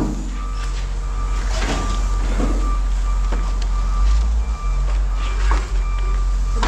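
Reversing alarm on a yard vehicle backing up: a single-pitched beep repeating at an even pace, over the steady low running of its engine, with a few knocks.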